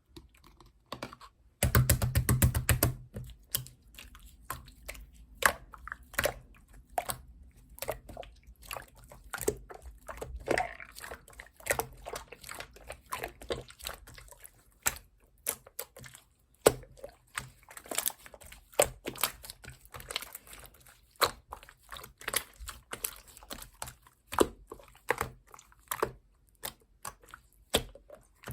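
Clear slime squeezed and pressed by hand: irregular wet clicks and pops throughout, with a dense, louder patch of squelching about two seconds in.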